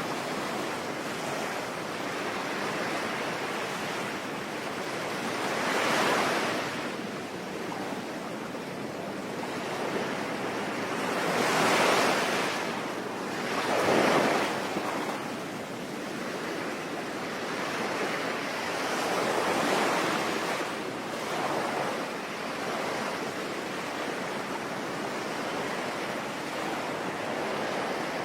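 Sea waves breaking and washing on a shore over a steady hiss of rain. The surf swells and fades again and again, with the biggest surges about 6, 12 and 14 seconds in.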